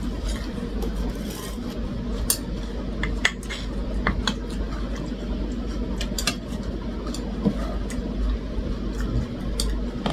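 Cutlery clinking and scraping against plates and bowls during a meal, in scattered, irregular sharp clicks over a steady low hum.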